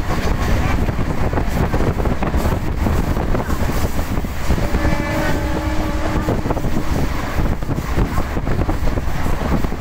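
The running noise of an Indian Railways train at speed, a steady rumble and rush of wheels and air, with wind buffeting the microphone at the carriage window. A brief steady tone sounds about halfway through.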